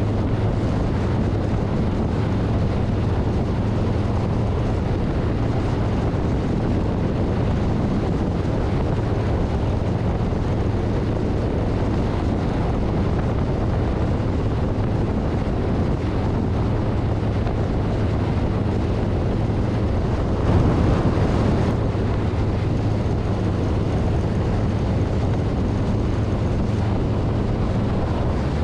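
Wind rushing over a handlebar-mounted microphone over the steady drone of a 2024 Harley-Davidson Street Bob's V-twin engine at cruising speed. A brief louder rush comes about twenty seconds in.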